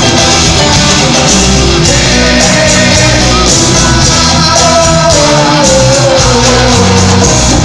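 Live band playing the instrumental close of a romantic ballad: sustained bass notes changing every second or so under a sliding melody line, recorded very loud.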